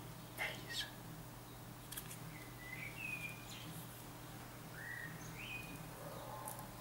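A few short bird chirps, whistles that rise and fall. Under them, light clicks and crinkling of hands handling plastic sunglasses and aluminium foil on a table.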